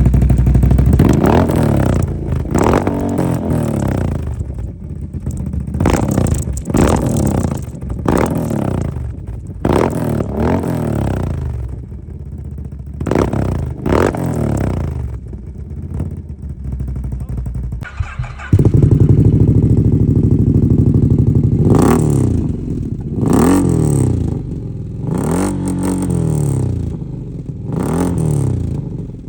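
ATV engine, a Can-Am quad, revved again and again through an aftermarket performance exhaust: quick blips that rise and fall every second or two, with sharp cracks as the revs drop. About eighteen seconds in, the sound switches abruptly to a louder exhaust that idles between further blips, the second exhaust of an RJWC versus HMF comparison.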